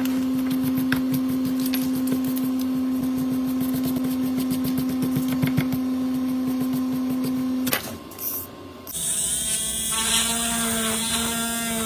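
Small electric motor whining steadily at one pitch, with rapid clicking, cutting off about eight seconds in. A wavering, many-toned sound follows near the end.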